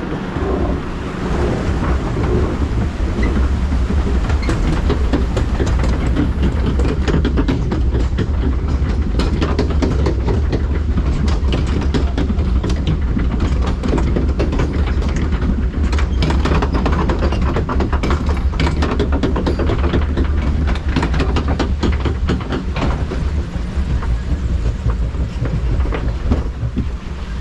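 Log flume boat being carried up a mechanical lift section, heard from on board: a steady low rumble with rapid clacking and rattling that is densest through the middle.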